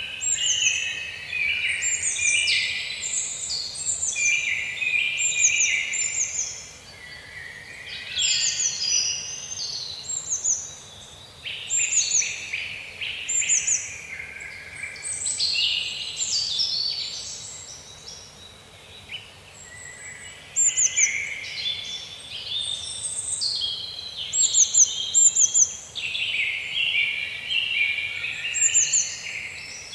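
A chorus of birds singing and calling over one another: rows of high, quickly falling notes above a lower run of chirping phrases, swelling and easing every few seconds with brief lulls.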